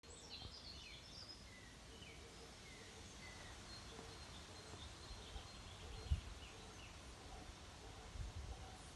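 Faint birdsong of short chirps and falling whistles, over a low outdoor rumble with a brief low bump about six seconds in.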